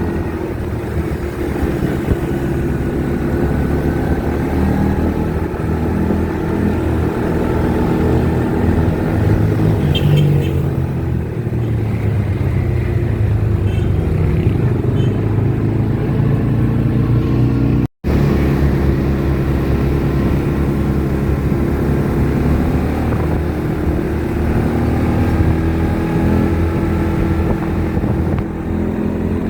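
ATV engine running steadily while riding, its pitch drifting up and down with the throttle. The sound drops out for an instant about eighteen seconds in.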